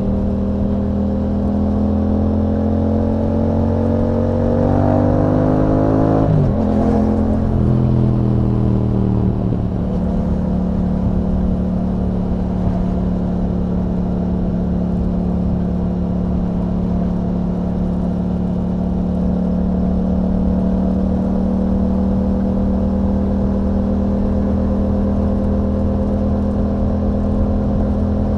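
2021 Yamaha MT-07's 689 cc parallel-twin engine through an Akrapovic exhaust with a dB killer, accelerating with rising pitch for about six seconds, breaking off sharply, then dropping in pitch as the throttle closes. It then settles into a steady cruise at constant engine speed.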